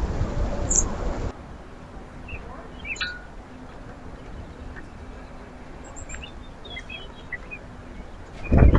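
Small songbirds chirping in short, scattered calls. A loud steady rushing noise stops abruptly about a second in, and there is a brief loud thump near the end.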